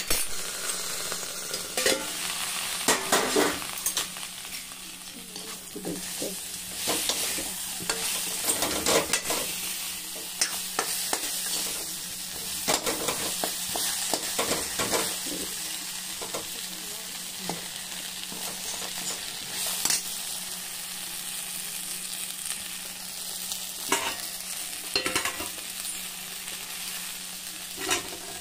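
Stuffed eggplants sizzling in hot oil in an aluminium kadhai, a steady frying hiss. A spatula scrapes and clatters against the pan as they are stirred, most busily in the first ten seconds and again in a few short bursts later.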